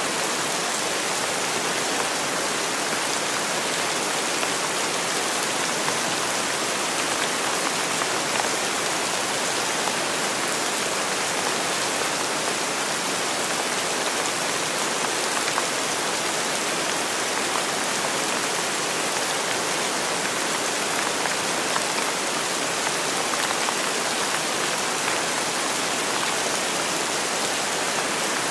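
Steady rainfall, an even hiss of drops landing on a surface, with no change in strength.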